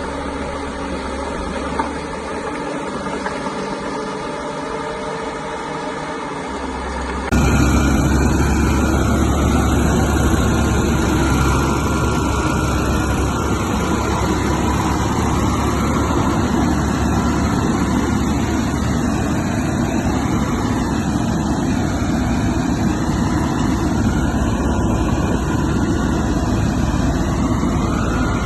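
Caterpillar bulldozer's diesel engine running steadily under work. It becomes suddenly louder and fuller about seven seconds in.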